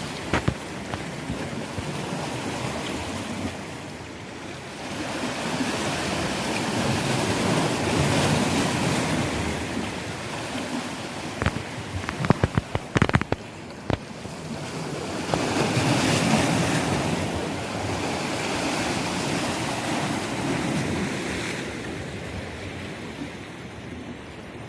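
Sea waves surging and washing in slow swells, a few seconds apart, with wind buffeting the microphone. A short cluster of sharp knocks falls about halfway through.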